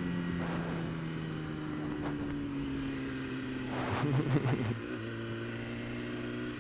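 BMW S1000RR inline-four engine heard from on board, running at moderate steady revs with its pitch slowly sagging, then a brief rough blip about four seconds in before it settles into a steady lower note.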